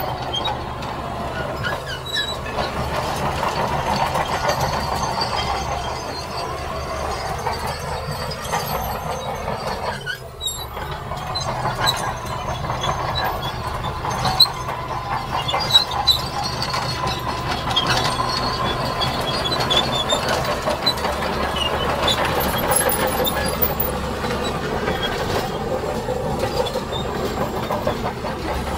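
Tracked heavy equipment working sand: a diesel engine running steadily under the grinding, clanking and squealing of steel tracks, with a couple of sharp metal knocks about halfway through.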